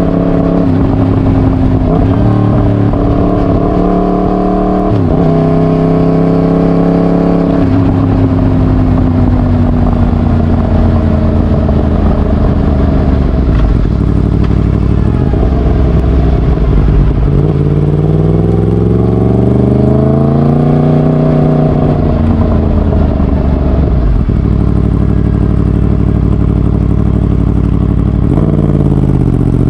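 Yamaha MT-10's crossplane inline-four (CP4) engine running through a de-catted straight-pipe exhaust, its revs holding, stepping and gliding, with a long rise and fall in revs about two-thirds of the way through.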